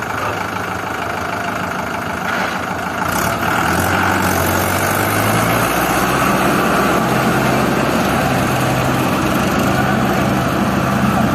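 A heavy diesel engine running; about three seconds in it revs up and keeps running harder, as when a machine takes up the strain of pulling a stuck tractor out of mud.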